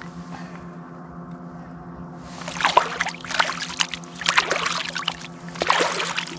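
Steady low drone of a boat engine, with irregular bursts of rustling and clattering from about two and a half seconds in.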